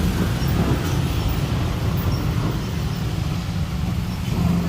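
Steady low rumble of vehicle noise, even and unbroken.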